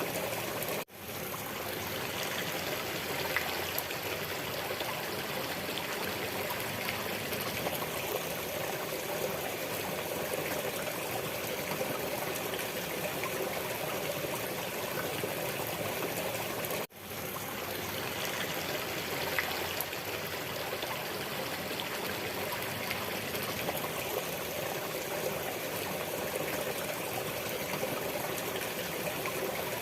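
Steady flowing, trickling water of a small stream. The sound cuts out suddenly twice, about a second in and again about seventeen seconds in, and fades back in each time.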